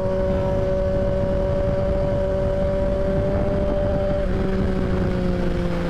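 Motorcycle engine at a steady highway cruise with heavy wind rumble on the rider's microphone; the engine note eases slightly lower about four seconds in.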